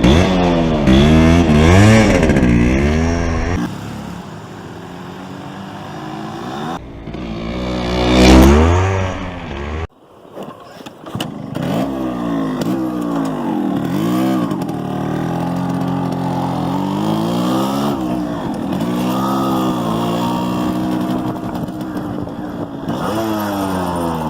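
Yamaha RX-135's single-cylinder two-stroke engine being revved in repeated blips, its pitch rising and falling again and again. A quieter, steadier stretch leads into one long rising surge to the loudest point, which cuts off abruptly near the middle before the blipping resumes.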